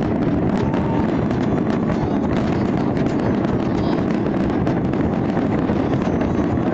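Fireworks cracking and banging over a dense, continuous low rumble, with wind buffeting the phone's microphone.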